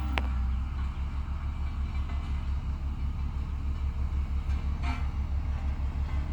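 Heavy diesel road machinery running: a deep, steady engine throb that settles into an even pulsing about a second in. There is a brief higher-pitched sound just after the start and another about five seconds in.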